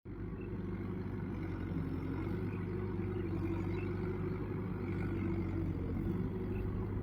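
Mahindra tractor's diesel engine running steadily, a constant low drone with no change in speed.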